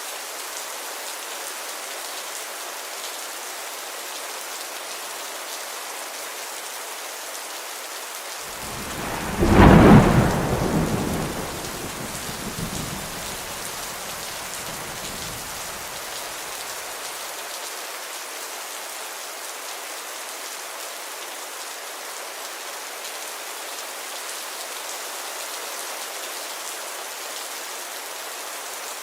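Steady rain hissing on surfaces, with one clap of thunder about a third of the way in that rumbles loudly and dies away over several seconds.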